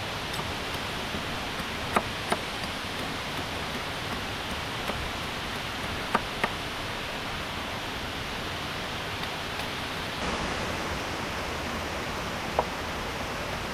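Steady rush of a waterfall, with a few short sharp knocks over it: two close together about two seconds in, one near the middle, two more about six seconds in, and one near the end.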